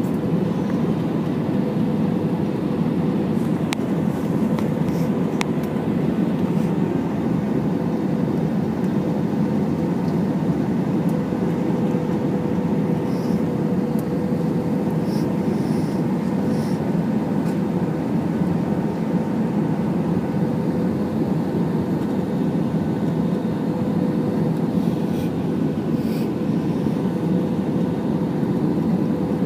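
Steady cabin noise inside an Airbus A320 in flight: a low, even roar of the jet engines and airflow with a steady hum running through it.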